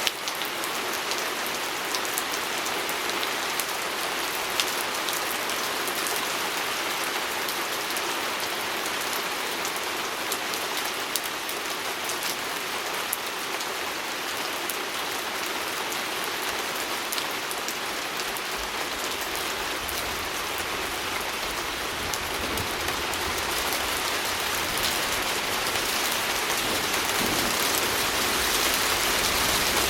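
Steady rain falling on a window pane: a dense, even hiss with scattered sharper drop ticks. A low rumble comes in about two-thirds of the way through, and the rain grows a little louder near the end.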